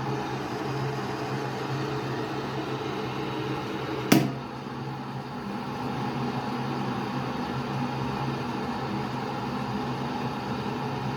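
Electric kettle heating water: a steady hum and hiss as the water warms toward the boil. One sharp click about four seconds in.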